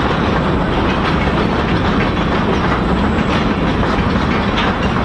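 Freight train of covered hopper cars rolling past: a steady rumble with wheels clicking over the rail joints.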